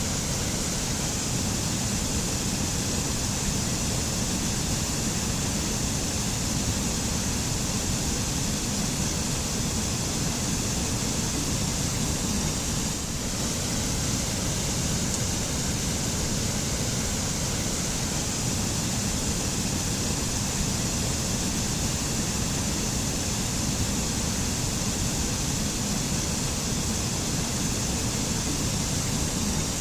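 Waterfall pouring steadily: a constant, even rush of falling water with no pauses or changes.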